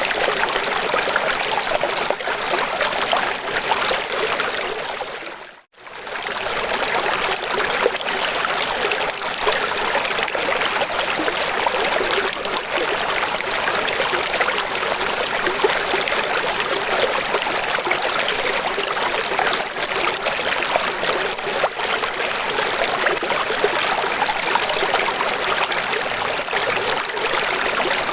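Steady running water, a bright rushing with little low rumble. About five and a half seconds in it fades out almost to silence for a moment, then fades straight back up, as at the join of a looped recording.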